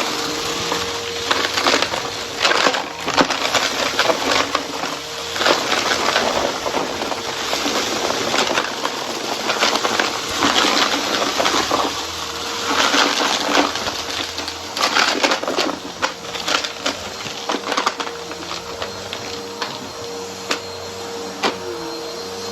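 Vacuum cleaner running with a steady motor hum while it sucks up dry, crunchy debris, giving a dense, uneven crackle of crunches and pops that comes in heavier surges every few seconds.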